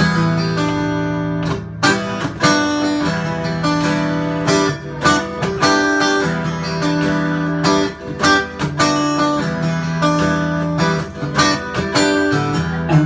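Band playing a guitar-led instrumental intro: strummed guitar chords with sustained notes over a steady pattern of sharp percussive hits.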